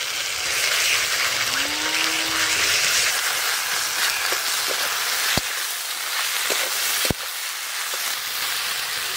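Raw mango pieces, sliced onion and spice paste sizzling steadily in hot mustard oil in a wok while being stirred with a spatula, with a couple of sharp knocks of the spatula on the pan in the second half.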